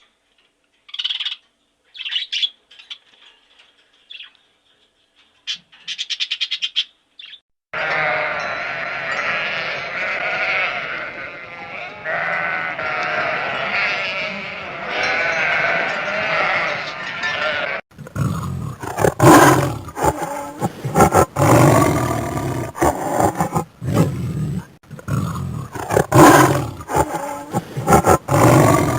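A string of different animal calls: short high calls with pauses at first, then a dense stretch of many overlapping calls, then loud calls from about eighteen seconds in, broken by abrupt cuts.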